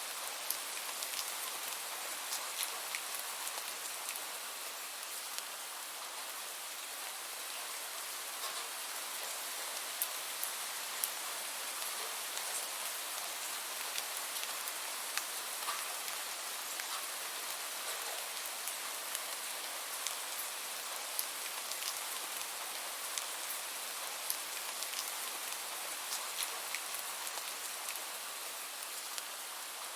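Steady rain falling on a surface, an even hiss with many small sharp drop ticks scattered through it.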